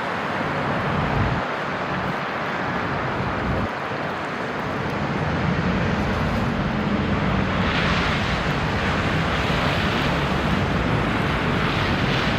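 Downtown street noise in a snowstorm: traffic rumbling by, with rushing swells as vehicles pass about two-thirds of the way through and near the end, and wind on the microphone.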